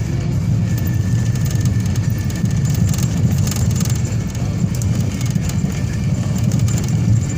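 Steady low rumble of a vehicle on the move along a highway, road and engine noise with no clear change.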